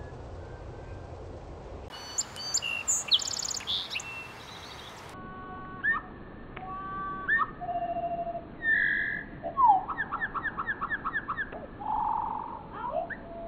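Birdsong: a quick burst of high chirps, then the same kind of song slowed down, so the notes come out lower and drawn-out as slow whistles, slides and a repeated trill.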